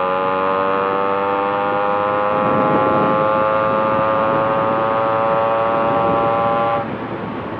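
Yamaha RX two-stroke single-cylinder motorcycle engine, fitted with an inbuilt chamber exhaust, running hard at highway speed under steady throttle with a high, tonal exhaust note that climbs slowly in pitch. Near the end the note falls away sharply as the revs drop.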